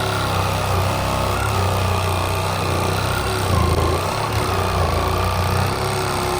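Reciprocating saw running steadily, cutting through tar-papered roofing, its motor giving a loud, even hum.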